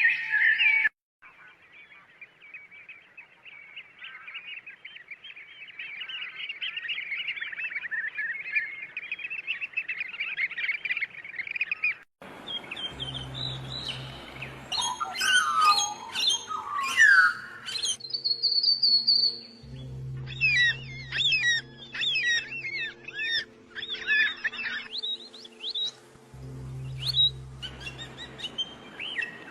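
Small birds chirping and twittering: first a dense chorus of quick chirps, then, after a cut about twelve seconds in, separate calls and whistled trills over soft background music with steady held tones and a low pulsing drone.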